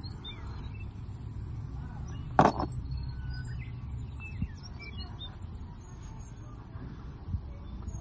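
Small birds chirping over a low steady rumble, with one sharp knock about two and a half seconds in and a couple of faint taps later.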